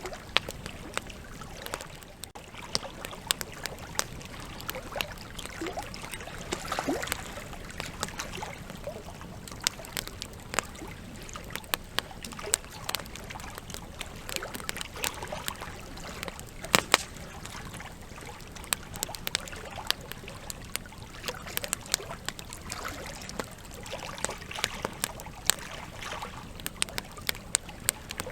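Campfire burning, with the wood crackling and popping in irregular sharp snaps over a steady hiss of flame.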